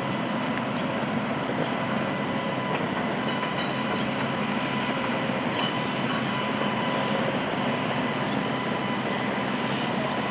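Construction machinery running steadily: an even mechanical noise with a few faint steady whining tones over it.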